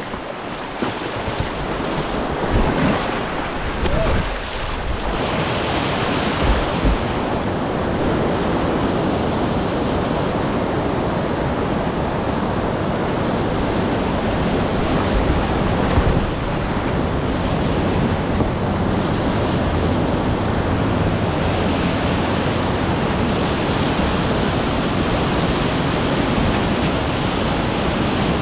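Whitewater of a mountain river rushing steadily and loudly, with a few short low thumps about 3, 7 and 16 seconds in.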